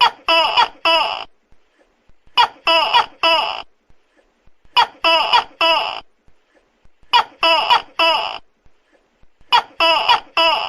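Tokay gecko calling loudly, its 'to-kek' calls coming in bursts of three, one burst about every two and a half seconds.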